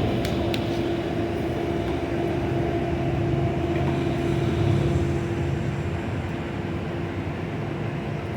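Steady motor drone holding one pitch over a low rumble, with a few sharp clicks in the first second.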